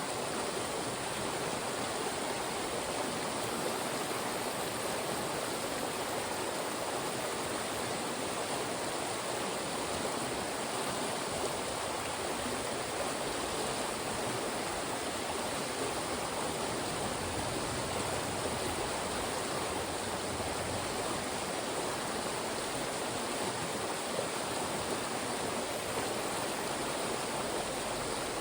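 Fast-moving stream rushing through rocky channels: a steady, unbroken rush of water.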